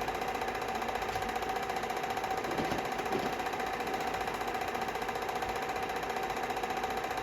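A machine running steadily, with a constant hum and a fast, even pulse.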